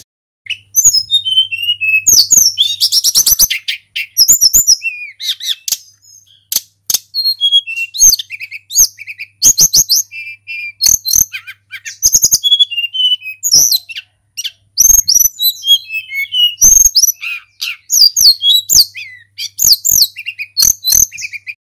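A tledekan gunung, a flycatcher, singing a fast, varied song of high whistled notes, trills and sharp chips, almost without pause.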